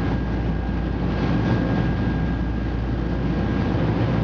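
Tour boat's engine running steadily under way, a constant low drone with water and wind noise.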